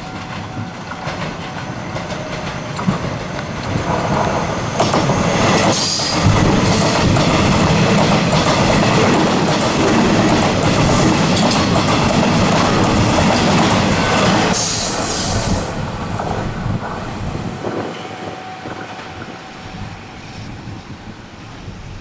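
Taiwan Railways EMU700 electric multiple unit pulling out of the station and running past. Its motors and wheels on the rails grow louder, hold loud for about eight seconds as the cars go by, then drop away sharply and fade as the train moves off.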